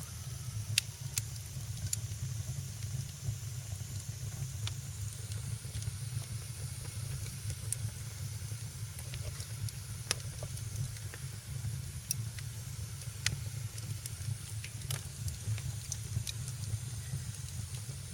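Wood fire in a fireplace crackling, with sharp pops scattered irregularly, about one a second, over a steady low rumble and hiss.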